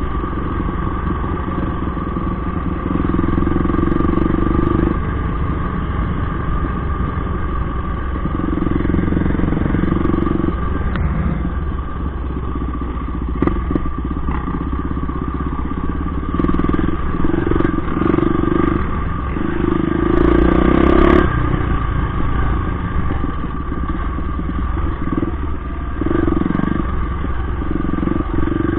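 Motorcycle engine running without a break, revved up in several louder stretches of a second or two.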